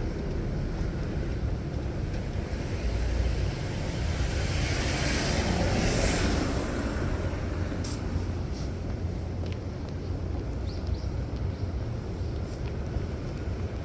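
City street traffic: a steady low rumble of vehicles, with one vehicle swelling up and passing close about four to six seconds in, and a sharp click a little later.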